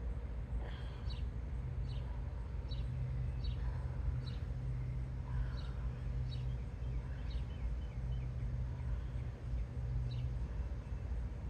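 A bird repeating short high chirps about once a second over a steady low hum and rumble, the hum firming up between about two seconds in and near the end.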